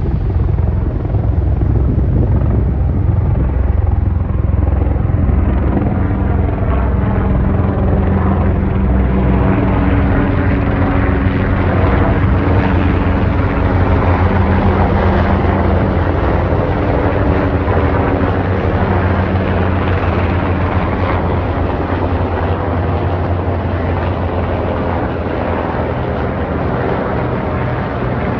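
A formation of military helicopters flying over, their rotors and turbine engines making a loud, steady beating drone that eases off slightly near the end.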